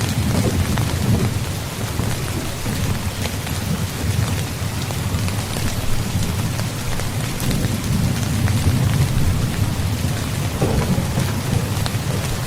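Heavy rain pouring steadily, with scattered sharper drop hits, over a continuous low rumble of distant thunder that swells and fades.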